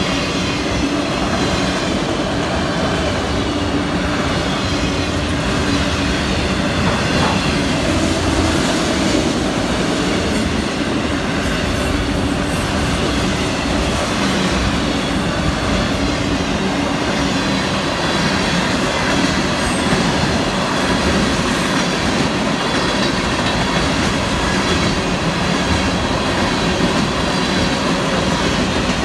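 Cars of a long Florida East Coast Railway mixed freight train rolling past: a steady, loud noise of steel wheels on the rails, with faint wheel squeal near the start.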